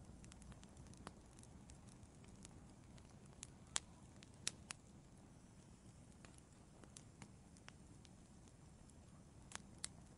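Wood fire in an outdoor fireplace crackling faintly, with scattered sharp pops over a low, steady background rush. The loudest pops come a little under four seconds in and about halfway through, with a quick few more near the end.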